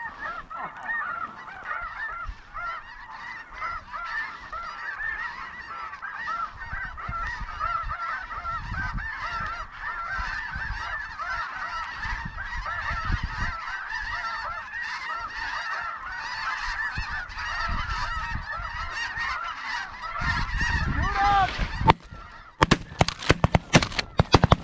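A large flock of snow geese calling in a dense, continuous clamour of short, high honks. Near the end a rapid string of sharp shotgun blasts breaks out as the hunters open fire on the flock.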